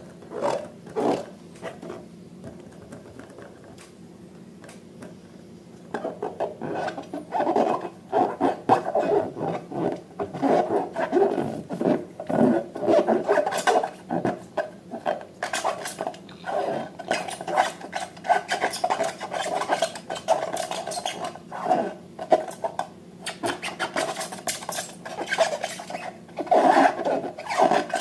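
Slime being stirred and worked in a bowl: continuous scraping, rubbing and clicking that starts about six seconds in, after a few light clicks.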